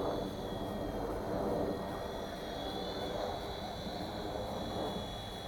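Small electric RC helicopter (WLtoys V911-pro) hovering: a faint, steady high-pitched motor and rotor whine over a low rumble of wind.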